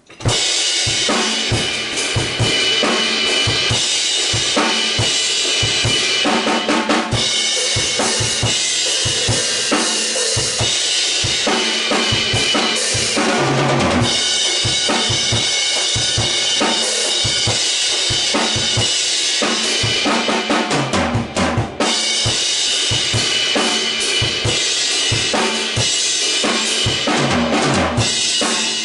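Acoustic drum kit played live: a steady rock beat on bass drum and snare under constant cymbal wash, with fills and a brief break about two thirds of the way through.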